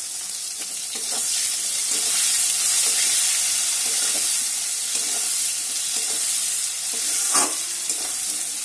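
Chopped onions, green chillies and potato pieces sizzling in hot oil in a metal wok, stirred with a metal spatula that scrapes and knocks against the pan. The sizzle grows louder about a second in, and one knock stands out near the end.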